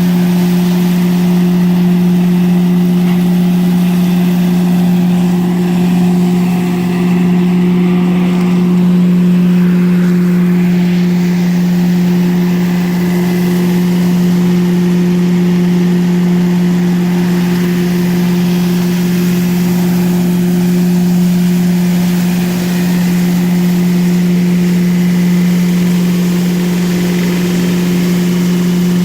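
Tractor-mounted three-point-hitch debris blower, driven from the tractor's PTO, running at a constant speed: a loud, steady hum with the tractor engine under it.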